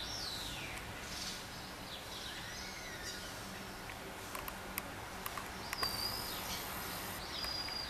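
Birds calling with quick rising and falling chirps and a few short held whistles over a steady street hum, with several sharp ticks about halfway through.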